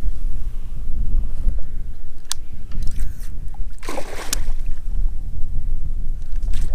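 Strong wind buffeting the microphone as a steady low rumble, with a sharp click about two seconds in and a brief, louder rustling knock around four seconds in.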